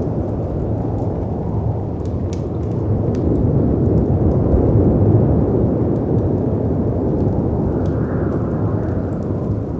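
Storm ambience: a steady deep rumble of wind and breaking sea waves that swells about halfway through, with a faint rising and falling howl of wind near the end. Scattered sharp crackles and pops of a wood fire sit on top.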